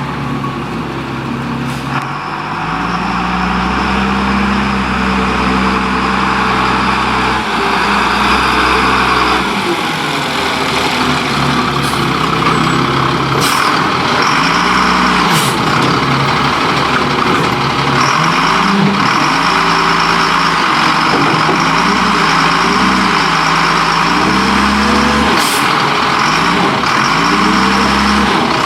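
Leach Curbtender rear-loader garbage truck running, its engine revving up and down repeatedly over a steady hiss, with a few short sharp sounds such as bangs or air releases.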